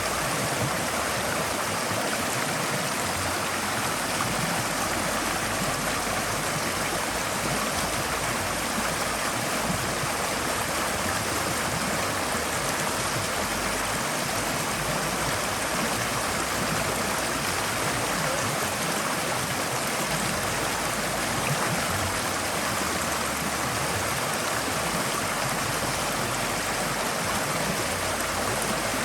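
Forest stream flowing steadily over rocks: an even, unbroken rush of water.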